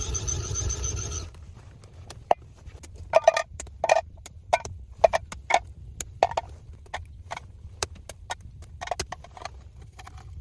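A steady, high-pitched whirring for about the first second, cutting off abruptly, then a long run of irregular sharp knocks, some with a short hollow ring, as of hard objects struck or tapped together.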